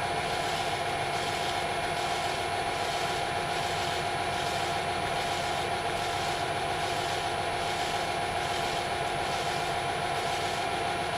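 Metal lathe running steadily while a cutter feeds into a metal workpiece, an even machine hum with a faint regular pulse.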